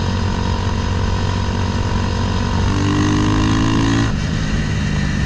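Motorcycle engine running under way: a CBR300R single-cylinder in a Honda Grom. It runs steadily, then the revs climb for about a second and a half and drop sharply about four seconds in, as on a gear change, before running on at lower revs.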